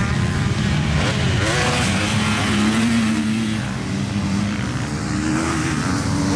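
Motocross bike engines revving hard, the pitch rising and falling with throttle and gear changes, more than one engine heard at once.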